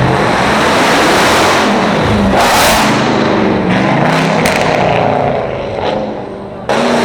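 Car engine revving and accelerating on a street, its pitch rising and falling several times over steady traffic noise. A sudden loud rush of noise starts near the end.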